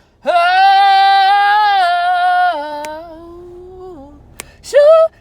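A woman singing unaccompanied, holding one long note for about two seconds, then stepping down in pitch and fading out, before starting a short new sung phrase near the end.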